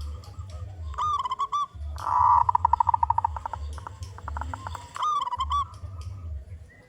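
Zebra dove (perkutut) singing: a few short rising-and-falling coos, then a fast run of rapid staccato notes, then coos again about five seconds in.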